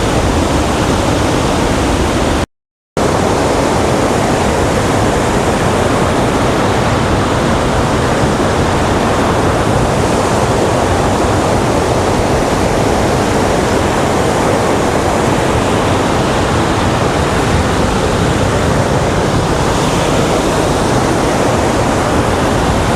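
Waterfall: a steady, loud rush of falling water. It cuts out for about half a second some two and a half seconds in, then carries on unchanged.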